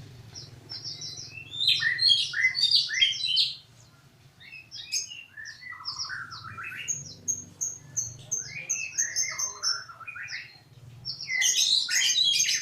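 A murai songbird singing a varied song of clear whistles, slurred notes and quick chattering runs, in phrases broken by short pauses about four and ten seconds in, with a dense burst of notes near the end.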